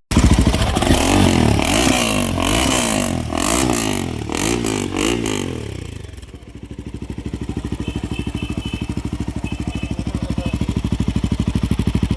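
Royal Enfield Himalayan 450's single-cylinder engine running through a Powerage aftermarket stainless steel exhaust, revved up and down several times, then settling about halfway through into a steady idle with an even, pulsing beat.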